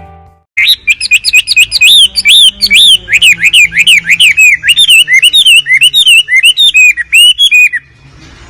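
Wambi bird singing: a fast, loud string of sharp chirps and whistled notes sweeping up and down, starting about half a second in and breaking off shortly before the end.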